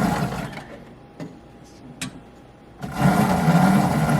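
A loud electrical or mechanical buzz mixed with hiss, which breaks off about half a second in and comes back near the end. A couple of sharp clicks fall in the quieter gap.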